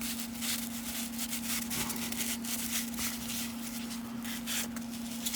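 Soft, irregular rustling and crinkling as a freshly opened plastic cello pack and its baseball cards are handled, over a faint steady hum.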